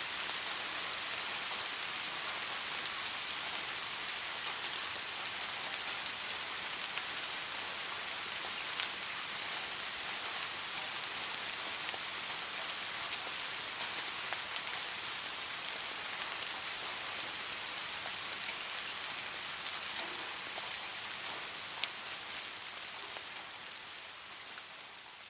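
Steady rain falling, an even hiss with scattered sharp drop ticks. It fades down over the last few seconds.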